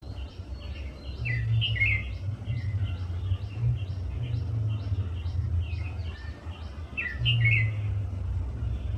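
Songbirds calling: a short high note repeated about three times a second, with two louder chattering phrases about a second and a half in and again near seven seconds. A steady low rumble runs underneath.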